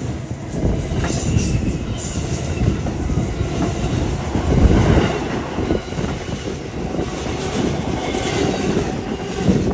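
Train passing close by: a steady rumble of wheels on the rails, broken by repeated clacks.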